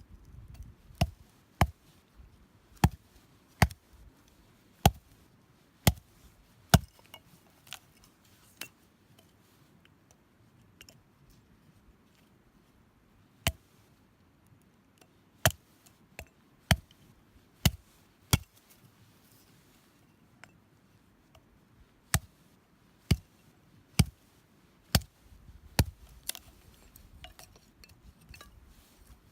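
A series of sharp knocks or clicks, about one a second, in runs broken by pauses of a few seconds.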